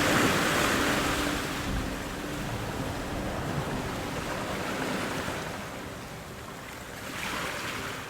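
Ocean surf: a wave washes in and slowly recedes at the start, and a smaller wave swells and fades near the end.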